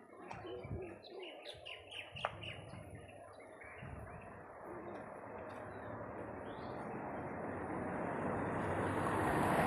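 Small birds chirping rapidly for the first few seconds, with one sharp click about two seconds in. A rushing noise then grows steadily louder over the rest and becomes the loudest sound.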